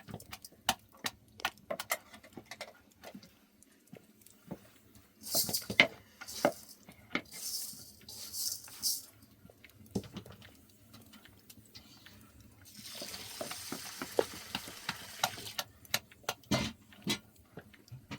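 Cooking sounds: metal utensils clinking and scraping in a cooking pot with many short knocks, a few brief hisses, and, about thirteen seconds in, a steady hiss lasting some three seconds.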